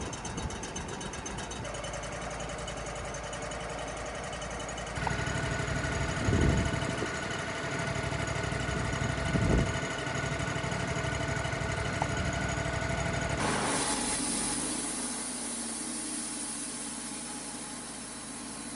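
Portable sawmill's engine running. About five seconds in it grows louder and a steady whine comes in, with two heavy thumps a few seconds apart. About thirteen seconds in there is a hissing rush, and then the sound settles lower.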